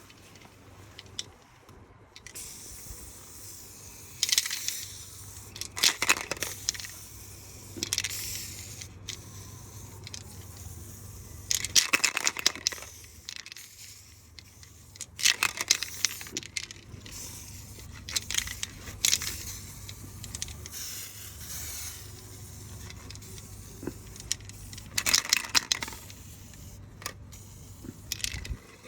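Paint spraying in about eight short bursts of high-pitched hiss, some with sharp clicks, over a steady low hum.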